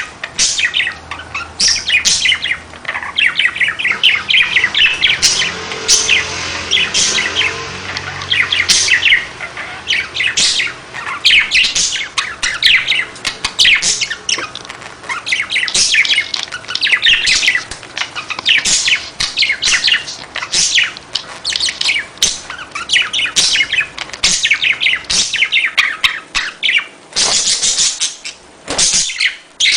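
Budgerigars chattering and chirping in a dense, continuous run of quick, high warbling calls.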